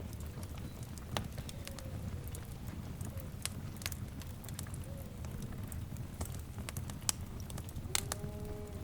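Wood fire crackling over a steady low rumble, with sharp pops scattered through, a few of them louder. About eight seconds in comes a short pitched animal-like call, part of the wilderness ambience.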